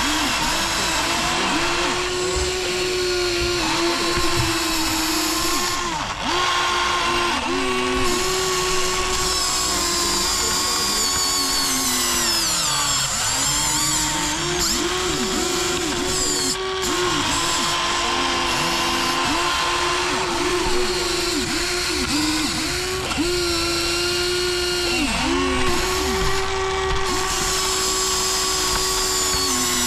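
Small electric motors of a Huina 1593 RC excavator whining as it works, the pitch repeatedly dipping and climbing back as the motors start, stop and slow under load, with several motors sometimes running at once.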